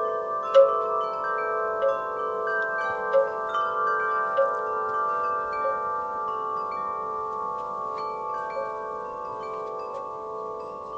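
Wind chimes in a breeze, struck irregularly so that their notes ring on and overlap into a sustained shimmer. The strikes come often at first and thin out after about halfway.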